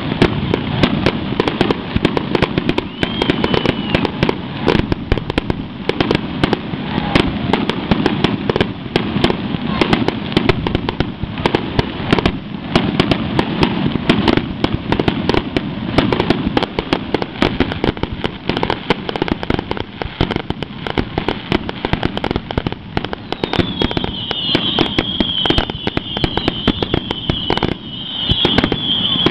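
Fireworks display: a dense, continuous barrage of shells bursting, with rapid bangs and crackles, and shrill wavering whistles near the end.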